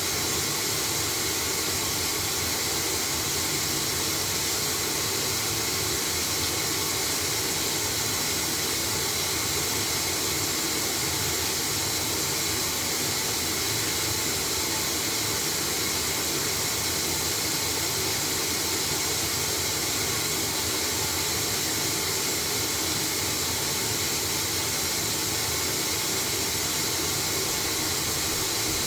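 LG washing machine running with a loud, steady hiss and whoosh that does not change.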